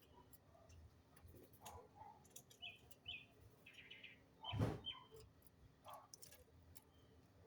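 Faint bird chirps and short calls, scattered and irregular, with one louder brief thump a little past halfway.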